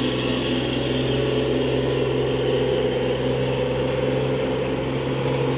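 Truck's diesel engine running steadily under heavy load as it tries to climb a muddy hill, an attempt that is failing.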